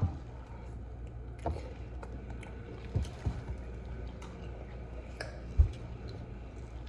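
Quiet eating sounds of a person chewing food, with a few small clicks and knocks scattered through, the sharpest a little after five seconds in, over a steady low hum.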